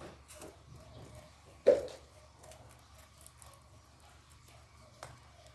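Handling noises from unpacking plants: light rustles and clicks, with one sharp knock about one and a half seconds in and a smaller click near the end.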